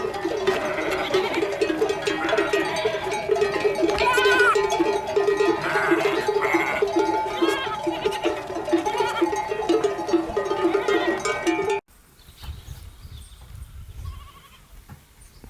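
Sheep bleating over background music with a repeating plucked-string pattern. About twelve seconds in the music cuts off suddenly, leaving a much quieter recording with a low rumble.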